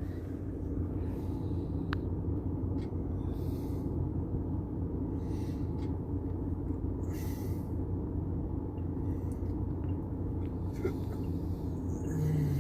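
Steady low hum and rumble of a parked vehicle's engine running, heard from inside the cabin, with a few faint clicks.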